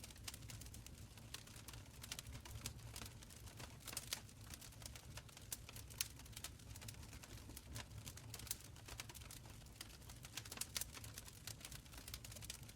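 Wood fire crackling in a stone fireplace: a dense run of small sharp crackles and pops, a few louder, over a soft low rumble of the flames.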